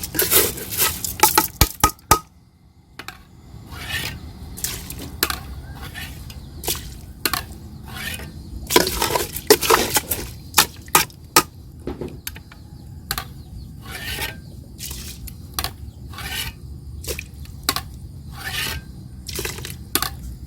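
Kitchen work at a pot: a long run of irregular clinks, knocks and scrapes of utensils against cookware, as chicken-boiling broth is added to rice for cooking. The densest, loudest clatter comes in the first two seconds and again about halfway through.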